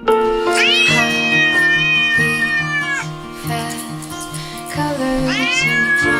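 A cat giving two long, drawn-out meows, each rising sharply and then sliding slowly down, over background music.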